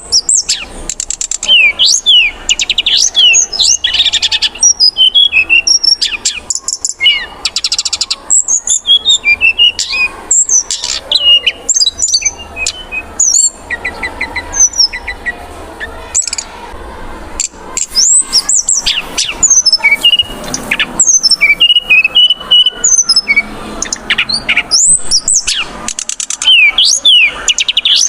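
Brown-chested jungle flycatcher (sikatan rimba dada coklat) singing loudly and without pause: a rapid, varied stream of high whistled notes that sweep up and down, broken now and then by fast rattling trills.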